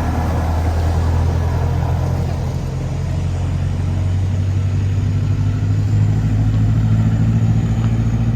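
Type 16 Maneuver Combat Vehicle's inline four-cylinder turbodiesel running with a deep, steady drone, getting somewhat louder in the second half.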